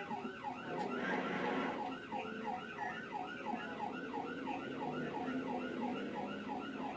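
Police car siren in fast yelp mode: a quick falling whoop repeating about three times a second, over steady vehicle and road noise.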